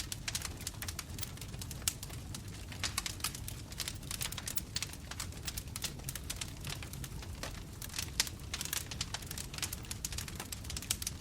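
Bonfire crackling: a steady stream of irregular sharp pops and snaps over the low, steady rumble of the burning flames.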